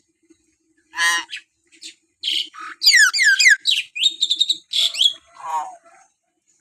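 Hill myna calling: a quick series of loud whistles, falling pitch glides and harsh squawks, starting about a second in and running to near the end.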